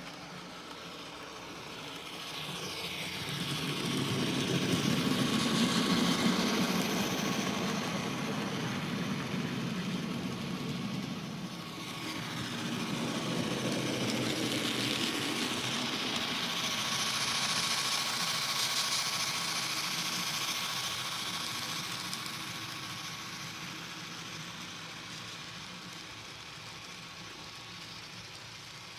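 N scale model freight train running on the track, its wheels and motor making a steady rumble with a faint steady whine. It swells as the train passes close, a few seconds in and again in the middle, then fades away.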